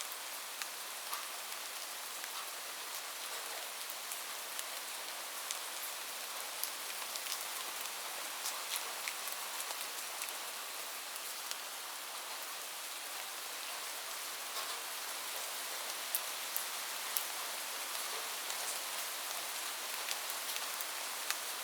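Steady rain: a fine even hiss with individual close drops ticking sharply here and there.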